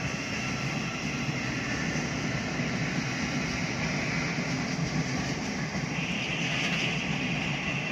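Electric multiple-unit passenger train running along the line and away, a steady rumble of wheels on rail with a high whine that grows stronger about six seconds in.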